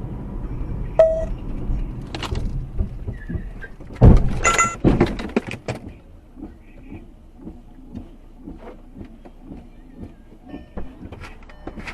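A vehicle running with a low rumble, then a sudden loud bang with a brief ringing about four seconds in, followed by a second or so of rattling clatter and scattered faint clicks.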